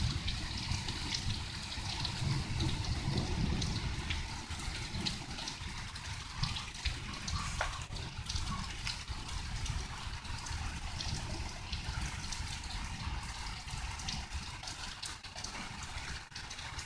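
Steady rain falling and dripping, with many small ticks, over a continuous low rumble that is taken for constant thunder, a low roar.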